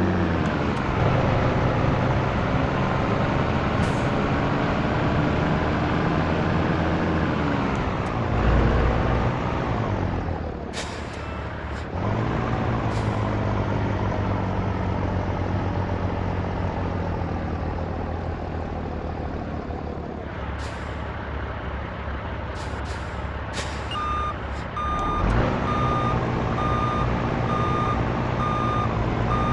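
Heavy truck diesel engine, likely a Scania T113's 11-litre six-cylinder, running and changing revs, rising and falling several times while manoeuvring. Short air-brake hisses come now and then. In the last few seconds a reversing alarm beeps steadily.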